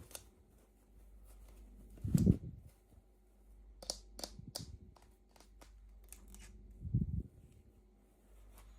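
Toy packaging being handled and opened: two soft thumps and a short run of sharp crinkling, tearing clicks in between.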